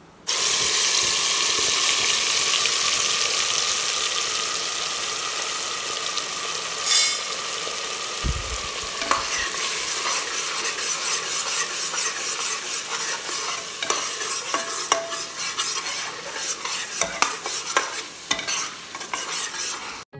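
Wet ground masala paste hitting hot oil in a pressure cooker, setting off a loud sizzle that starts suddenly and slowly eases. In the second half a metal spatula stirs the frying paste, scraping and clicking against the pot.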